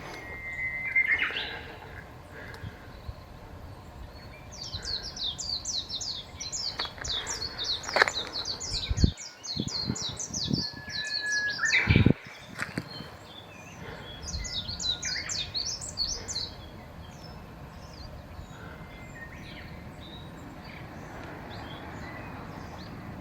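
Small songbirds calling: two runs of rapid, high-pitched twittering chirps, with scattered single notes between them and two sharp knocks near the middle.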